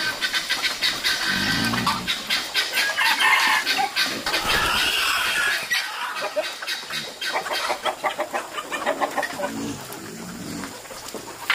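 Birds calling in short bursts, over many quick clicks and taps.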